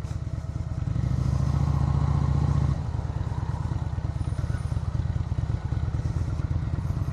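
Motorcycle engine running at low neighbourhood cruising speed, about 20 to 25 mph, picked up by a mic inside the rider's helmet next to his mouth. The engine is louder for the first few seconds, then eases off slightly about two-thirds of a second short of three seconds in.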